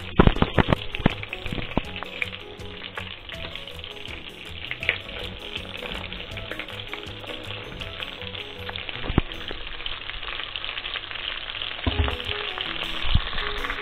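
Rabbit pieces frying in hot oil in a deep pot, a steady sizzle. Sliced onion goes in from a cutting board, with a cluster of sharp knocks and clatters in the first two seconds and a few more later.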